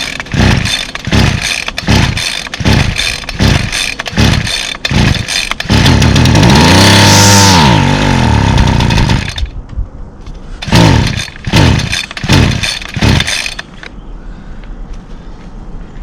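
Two-stroke string trimmer being pull-started over and over, about two pulls a second. About six seconds in it catches, revs up and runs down again within a few seconds, then a few more pulls fail to keep it going. It is running only on starter fluid, with no working primer.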